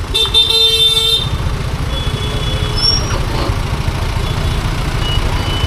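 A vehicle horn blares with one steady tone for about a second at the start, over a steady low rumble of road and wind noise.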